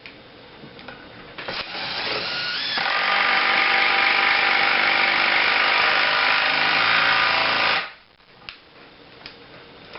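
DeWALT DCF885 20V MAX 1/4-inch impact driver driving a 3/8-inch hex head lag bolt: the motor spins up with a brief rising pitch about a second and a half in, then the hammer mechanism engages under load and rattles steadily for about five seconds before stopping abruptly.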